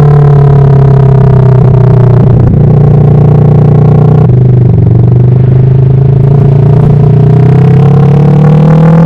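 Kawasaki Vulcan S's 649 cc parallel-twin engine running under way at a steady speed, its note sagging slightly and then rising over the last couple of seconds as the bike accelerates.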